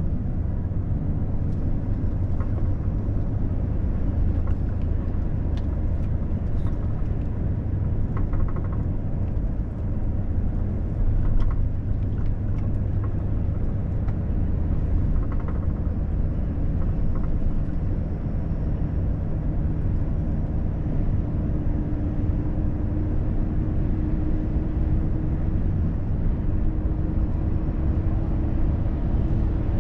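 Volvo FH truck driving at road speed: a steady low drone of diesel engine and tyres, with a few faint light clicks and a faint hum that rises slightly in the second half.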